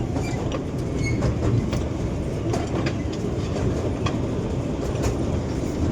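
Miniature park ride-on train running along its track: a steady rumble, with a few sharp clacks from the wheels and rails.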